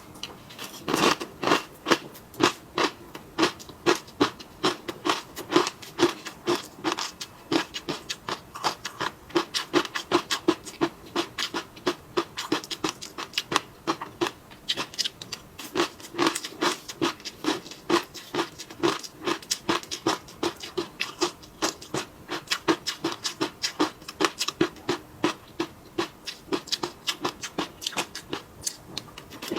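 Close-miked chewing and mouth sounds of someone eating: a steady run of short wet clicks, about three a second.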